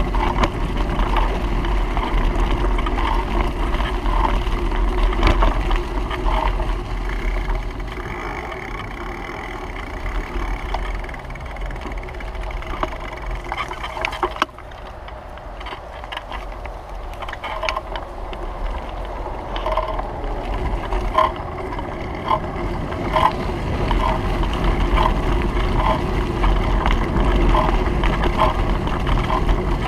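Steady noise of a bicycle ride: low rumble of wind on the microphone and rolling noise. A regular ticking about every half second comes in during the second half.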